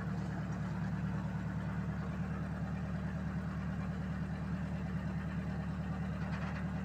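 Tow truck's engine idling steadily, with an even rapid pulse.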